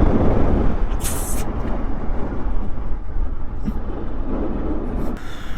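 Steady vehicle noise with a heavy low rumble, likely from the motorcycle and passing traffic, broken by a short sharp hiss about a second in.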